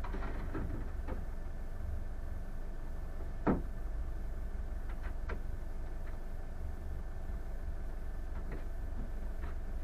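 Boat's engine running steadily, with scattered light knocks and one louder thump about three and a half seconds in.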